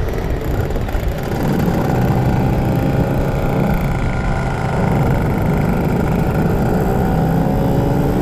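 Two-stroke motorcycle engine running steadily under way, heard on board. Near the end its pitch climbs as it revs up.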